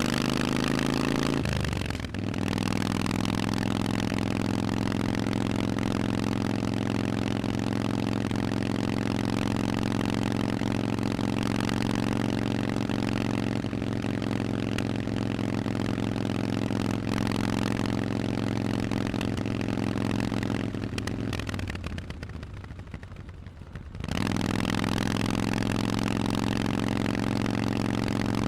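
Harley-Davidson Forty-Eight's 1200 cc air-cooled V-twin running through Vance & Hines aftermarket exhausts. Its note drops in pitch about two seconds in and then holds steady for a long stretch. Near the end it eases off and goes quieter for a couple of seconds, then comes back on at a steady note.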